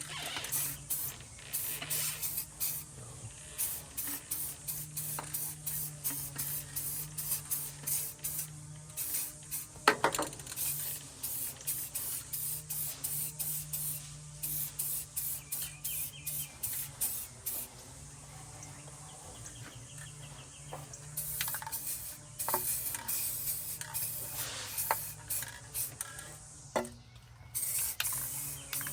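Aerosol spray-paint can spraying in many short hissing bursts, about two a second, pausing for a few seconds past the middle, with a sharp click about ten seconds in.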